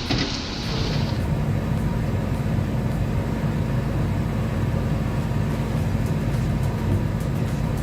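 Heavy diesel engine running steadily with a low drone. A high hiss cuts off about a second in.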